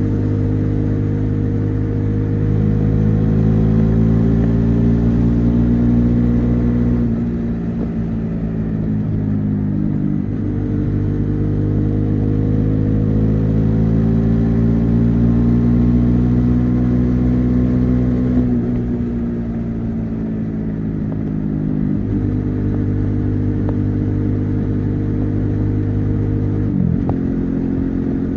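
Bajaj Dominar 400's single-cylinder engine and exhaust under way on a highway. The engine note climbs twice as the bike accelerates, dropping off sharply about seven seconds in and again around eighteen seconds, then holds a steadier cruise with a brief dip near the end.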